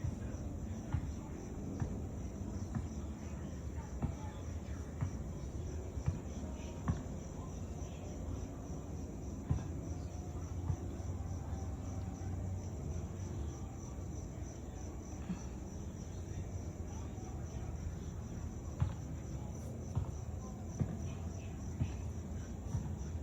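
Crickets chirping in a steady, rapidly pulsing high trill, with scattered faint clicks over a low background rumble.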